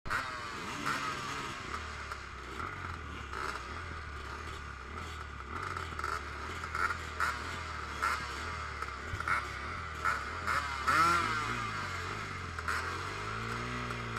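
Honda motocross bike's engine idling at the starting gate, with a quick rev up and back down past the middle and the revs rising near the end.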